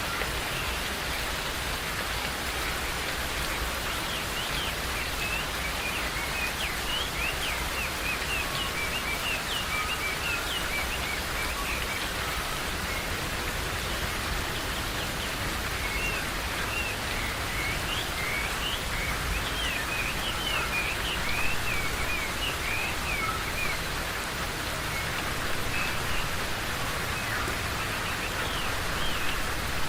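Steady rain falling in a forest, with many birds chirping over it in quick bursts of short high notes, thickest in two spells through the middle.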